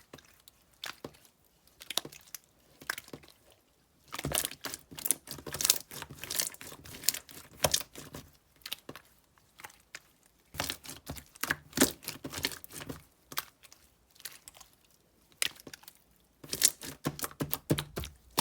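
Slime being squeezed and pressed by hand, giving off bursts of quick crackling clicks and pops with quieter pauses between.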